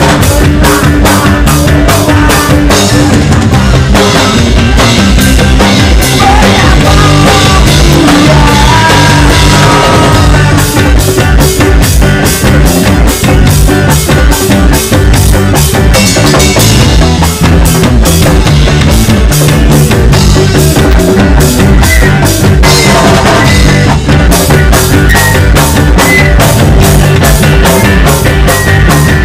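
A band playing loud music with a drum kit keeping a steady beat under bass and guitar.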